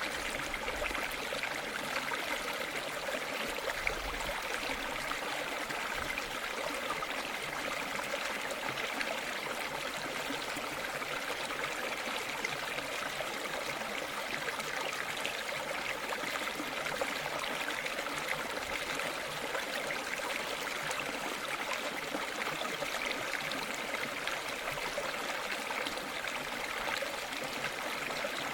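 Flowing river water, a steady rushing and babbling with no pauses or changes.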